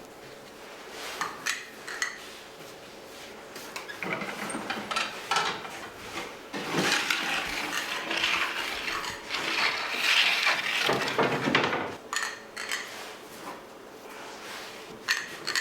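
Bakery work handling: scattered knocks and clinks of metal trays and tools, with a louder stretch of scraping and rattling in the middle.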